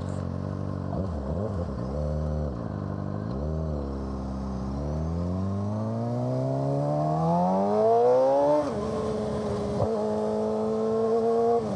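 Suzuki GSX-R600 inline-four with an M4 exhaust, heard from the saddle: the revs dip and rise twice, then climb steadily for about four seconds under acceleration. The revs drop sharply as the throttle shuts and settle to a steady cruise. A pop from the exhaust comes soon after, which the rider felt as a flame near his foot.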